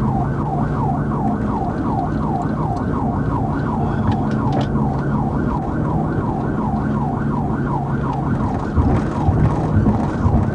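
Police car siren in a fast yelp, sweeping up and down about three times a second without a break, over steady engine and road noise during a high-speed pursuit.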